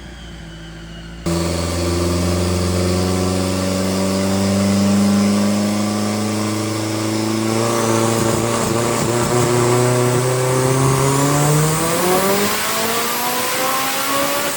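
Race car engine under load on a chassis dyno, revs climbing slowly and steadily, then faster near the end, as in a dyno pull. It comes in suddenly about a second in, after a quieter low hum.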